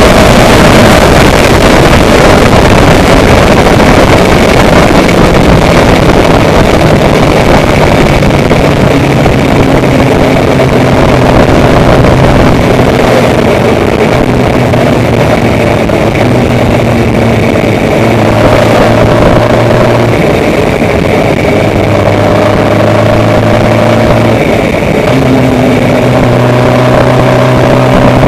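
Vehicle engine running steadily under a dense rush of noise, its pitch shifting up and down in steps every second or two.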